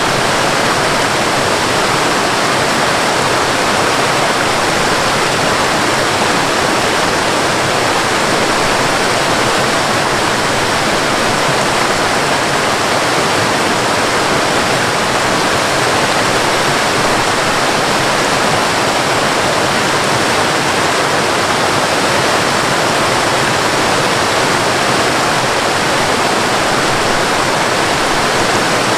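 Waterfall: a steady, even rush of falling water that never changes.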